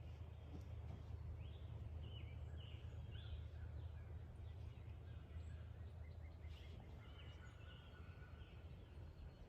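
Wind rumbling on the microphone, with a few faint bird calls over it: a quick run of short arched notes about a second in, and a longer held call around seven seconds.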